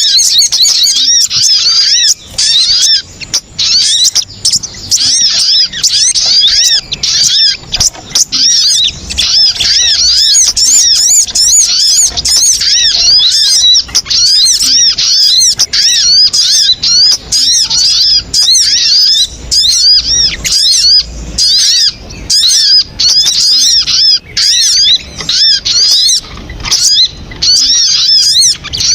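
Sogon bird calls played as a lure recording: a loud, unbroken stream of quick, high-pitched arched notes repeated over and over in chattering phrases.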